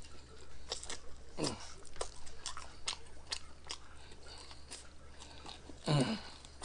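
Close-up chewing and biting of fried chicken: scattered crisp crunches and wet mouth clicks, with a short voiced hum from the eater about a second and a half in and again near the end.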